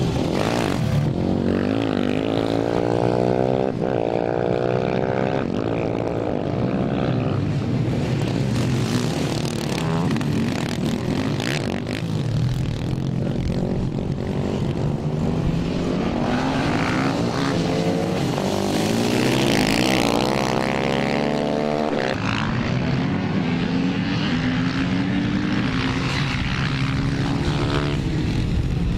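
Several small racing motorcycle engines (minimotos / pit bikes) buzzing at high revs, their pitch rising and falling again and again as the bikes accelerate, brake and pass one after another.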